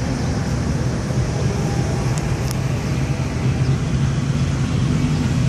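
Classic car engines rumbling steadily as cars cruise slowly past, getting a little louder over the second half.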